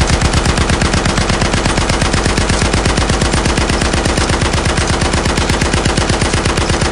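Toy gun's electronic machine-gun sound effect: a loud, rapid, unbroken rattle of shots at about ten a second.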